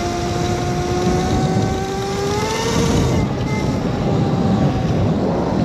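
Electric motor whine of a modded Razor MX650 electric dirt bike, climbing slowly in pitch as it speeds up, rising faster a little past two seconds in, then dropping away about three seconds in and returning near the end. Wind and snow rush loudly over the microphone throughout.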